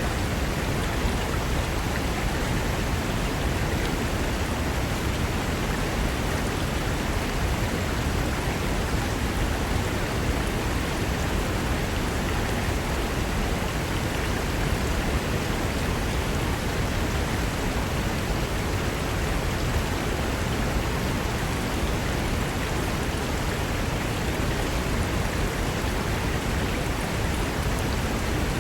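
Mountain river rushing over rocks: a steady, even rush of water with no change in level.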